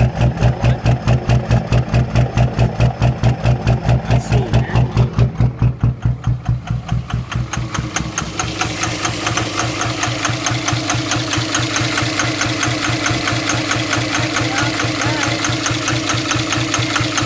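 A 24-valve Cummins 5.9-litre inline-six turbo-diesel idling with a deep, even lope, about four to five pulses a second. The owner suspects this is a misfire from bad injectors. About six or seven seconds in, the deep pulsing fades and a brighter, steadier diesel clatter takes over.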